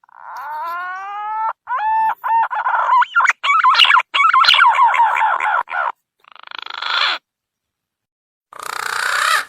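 Green pigeon (punai) lure calls. A long whistled note glides up and then down, followed by a quick run of short whistled notes with pitch slides. After a pause come two short, rough, hissy bursts.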